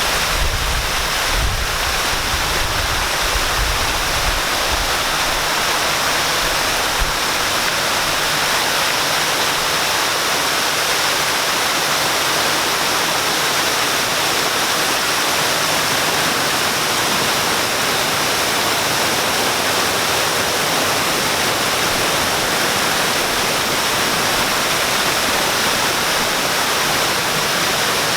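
Waterfall: a steady, dense rush of falling water, with a low rumble underneath for the first several seconds.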